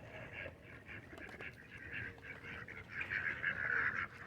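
A crowd of ducks calling over one another in a continuous chatter of short calls, busiest about three to four seconds in.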